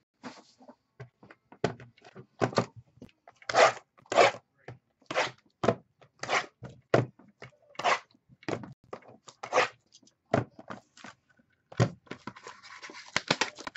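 Trading card packs and cards being handled: a run of irregular rustling, tearing and sliding noises as packs are opened and cards are slid out and shuffled.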